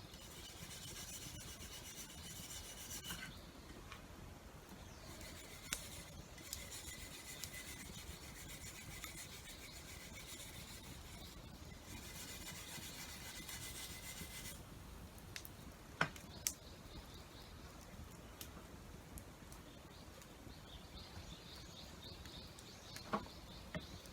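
A metal hand tool being sharpened with repeated rasping strokes, in three spells with short pauses between. A few sharp clicks come after, about two-thirds of the way through and again near the end.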